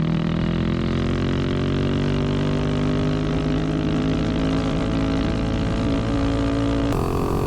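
Tillotson 225 single-cylinder engine of a mini bike, fitted with a Fire 265 cam, running under way with its pitch slowly rising as the bike gathers speed. The sound changes abruptly near the end, then the engine keeps running.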